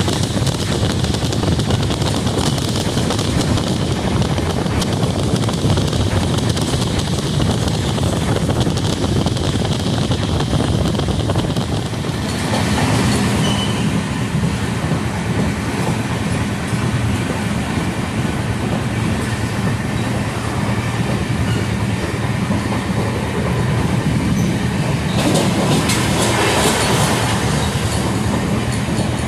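Indian Railways express train running at speed, heard from aboard the coach: a steady rumble and rattle of wheels on the track. The sound shifts about twelve seconds in.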